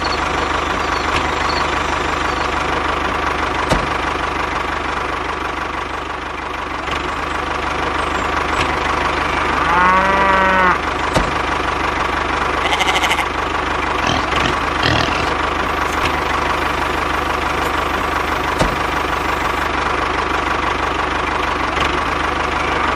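Mini tractor's motor running steadily. A long, arching, moo-like call sounds about ten seconds in, and another starts right at the end.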